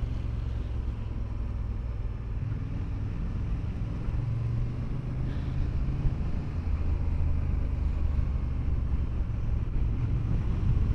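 Motorcycle engine running on the move, with wind noise over the microphone. The engine note shifts a little a couple of times as the rider works through the bends.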